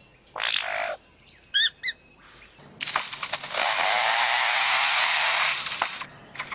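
Superb lyrebird mimicking chainsaws: a short harsh buzzing burst, two quick rising chirps, then a long harsh buzz of about three seconds like a chainsaw cutting, which stops just before the end.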